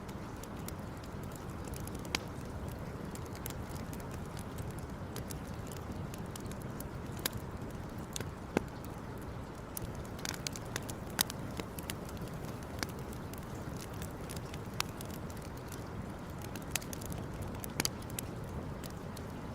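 Wood campfire crackling: scattered sharp pops and snaps every second or two over a steady low rushing background.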